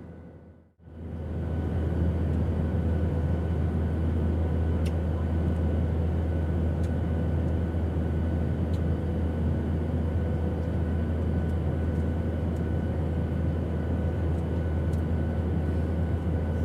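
Steady airplane engine drone: a deep low hum under a broad rushing noise, with faint steady whine tones above it. It fades out to near silence just under a second in and fades back up within about a second.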